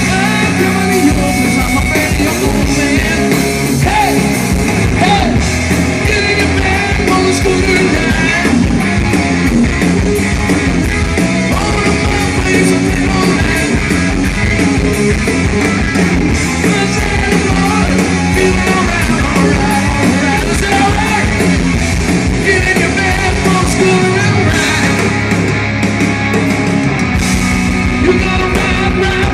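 Live rock band playing loudly.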